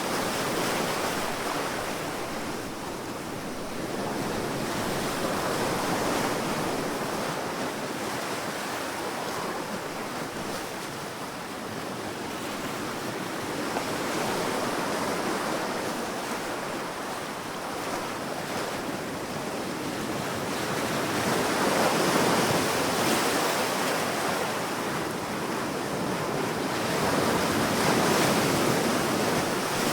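Sea waves washing onto a beach, a continuous surf noise that swells and subsides slowly, growing loudest about three quarters of the way through.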